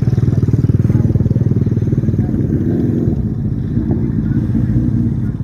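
A vehicle engine running steadily close by, a loud low rumble of rapid, even firing pulses.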